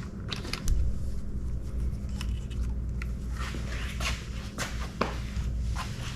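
Hand work on the boat's outboard: scattered clicks, taps and scrapes of tools and parts being handled, busier in the second half, over a steady low hum.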